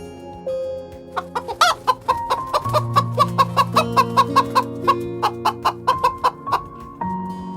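Chicken clucking in a quick run of short clucks, with one higher squawk about a second and a half in, over background music with held notes.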